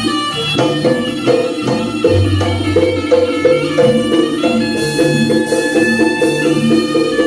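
Javanese gamelan ensemble playing jaranan dance music: a steady beat of struck percussion under ringing pitched metal notes, with a low sustained tone about two seconds in.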